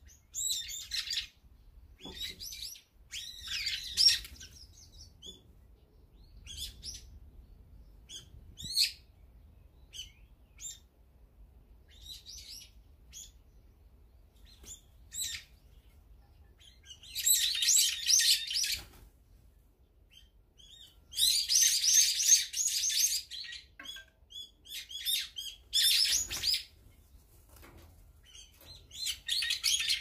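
Wild songbirds calling and chirping in short, scattered bursts, with two longer, loud spells of dense shrill calling about 17 and 21 seconds in.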